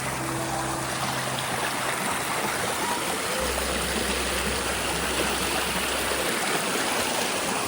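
Water from a mountain waterfall and its creek rushing steadily.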